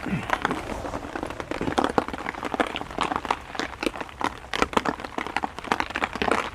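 Heavy rain falling, with many irregular sharp taps of drops hitting close to the microphone.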